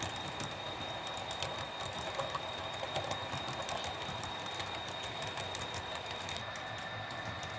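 HO scale model train running along the layout track: a steady rolling hum with scattered faint clicks and a thin, steady high whine.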